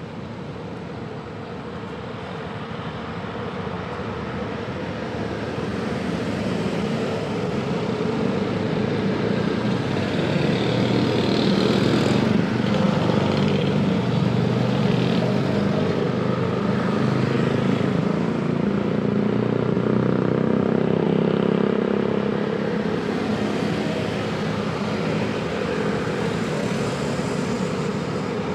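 Road traffic of cars and motorcycles running past, a continuous mix of engine and exhaust noise. It swells to its loudest about halfway through, then eases slightly toward the end.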